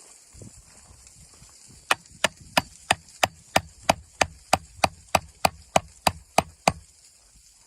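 Chopping on wood: about sixteen sharp, evenly spaced strokes, roughly three a second, starting about two seconds in and stopping shortly before the end.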